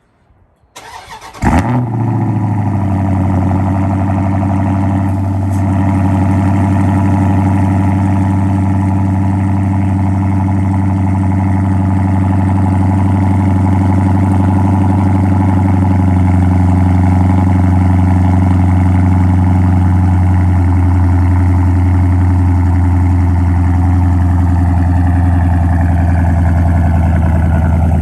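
Dodge Charger SRT 392's 6.4-litre HEMI V8 cold-starting about a second and a half in, then running at a steady high idle through a straight-piped exhaust (mid-muffler and resonator deleted, factory cats kept). The idle eases down slightly later on.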